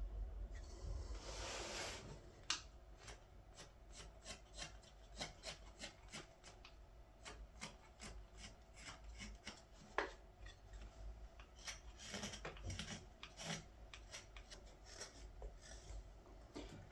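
Hand carving of a green-wood ladle: a blade paring shavings from the wood in short scraping strokes, about two to three a second, with one longer scrape about a second in and a denser run of cuts a little after halfway.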